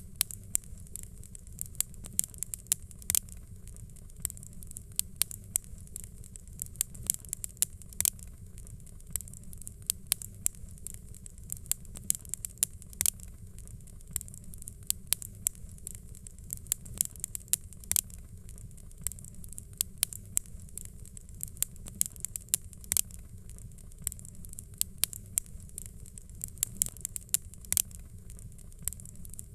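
Wood fire crackling: sharp, irregular pops and snaps, several a second, over a steady low rumble of flame.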